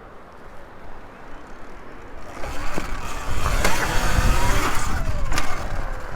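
Sur Ron electric dirt bike ridden off a drop. About two seconds in, a loud rush of wind and tyre noise builds, with the electric motor's whine falling in pitch. Sharp knocks from the landing and the suspension come about three and a half and five and a half seconds in.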